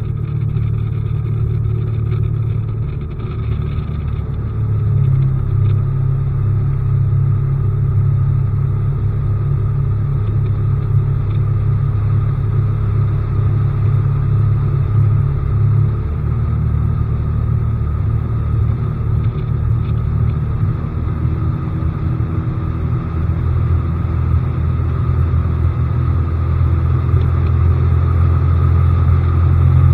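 Bass boat's newly fitted outboard motor running steadily under way: a loud, low drone whose pitch shifts slightly a few times.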